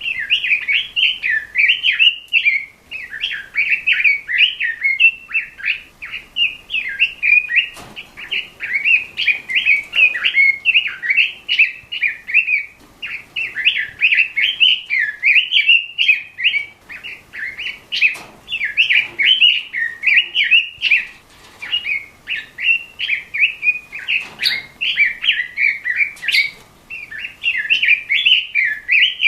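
Red-billed leiothrix (Pekin robin) singing a fast, continuous warbling song of rapid rising and falling notes, with only brief pauses. A few short clicks sound now and then over the song.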